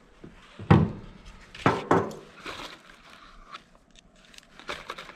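A few sharp metallic clicks and clacks as a Glock 44 .22 pistol is handled, with scraping in between: the shooter is clearing a failure to feed where the first round sat nose down.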